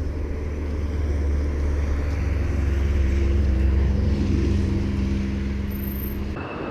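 A motor vehicle running with a steady low rumble. A humming tone joins about halfway through. It cuts off abruptly near the end, giving way to a different, noisier background with a faint high whine.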